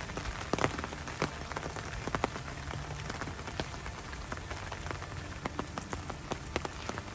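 Steady rain falling, with irregular sharp drips of single drops landing close by.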